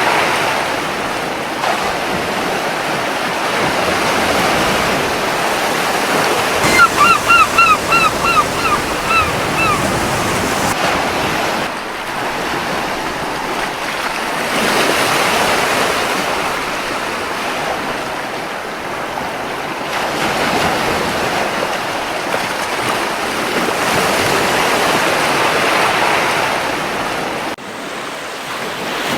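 Gentle ocean surf washing on a beach in slow swells, with wind. About a quarter of the way in, a gull calls in a quick run of about nine short, falling notes.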